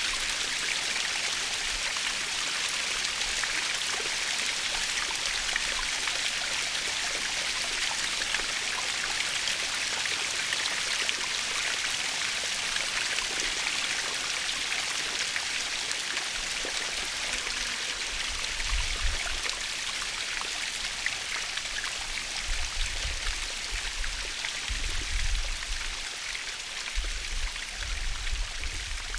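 Waterfall splashing in a steady, even rush of falling water, strongest in the upper range. In the last third, low rumbles come and go beneath it.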